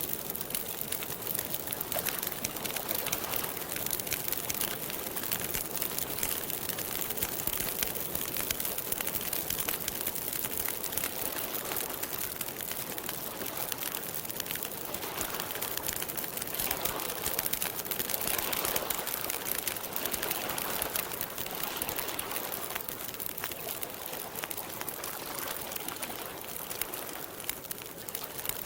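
Wood campfire crackling steadily with dense small pops, with softer swells of sound around the middle.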